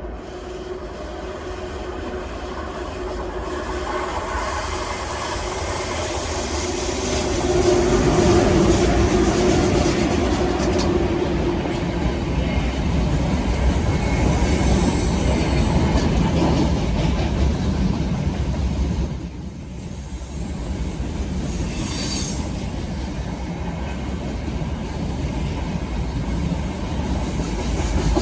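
Heavy freight train passing at speed. The noise builds over the first several seconds as it approaches, then the wagons run past steadily, with a brief drop about two-thirds of the way through.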